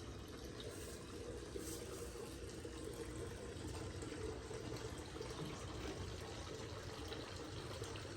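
Pork chop and mushrooms sizzling in a frying pan: a steady hiss with a few faint crackles.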